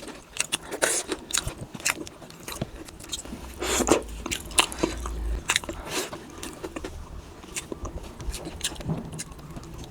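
Close-up chewing and wet mouth sounds of people eating soft bhakka rice cake with chicken gravy: irregular smacks and clicks.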